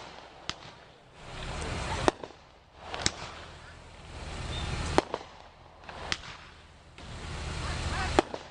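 A 500-gram consumer fireworks repeater cake firing shot after shot. Each shot is a swelling hiss that ends in a sharp bang, about six bangs spaced one to two seconds apart, some followed by a smaller crack.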